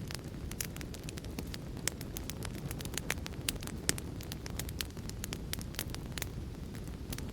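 Fire crackling: a steady low rumble of burning with frequent sharp, irregular pops and snaps, a few of them louder.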